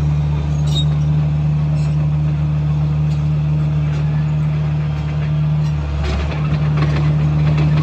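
Komatsu bulldozer's diesel engine running steadily under work. About six seconds in its note shifts briefly and some clattering comes through.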